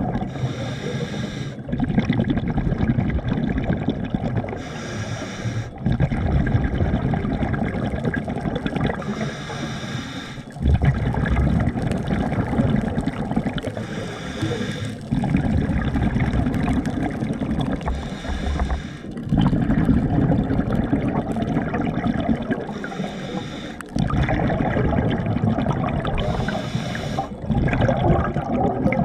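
Water sloshing and gurgling around a camera held at or under the surface of a spring. A short, higher rushing sound comes back every four to five seconds.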